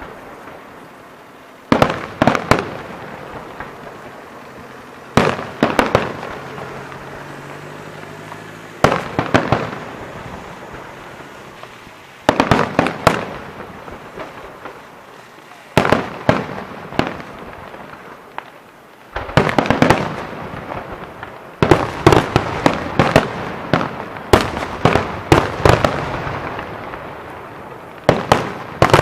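Fireworks display: clusters of rapid, sharp bangs about every three and a half seconds, each cluster trailing off in an echoing rumble. The clusters come thicker and closer together in the last third.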